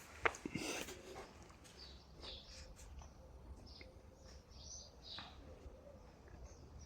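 Small birds chirping in short, scattered calls, with a sharp click and brief rustling in the first second.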